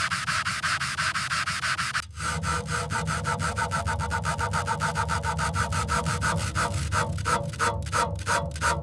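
Rapid back-and-forth hand scrubbing or sanding strokes, about eight a second, with a short pause about two seconds in. The strokes slow and space out near the end.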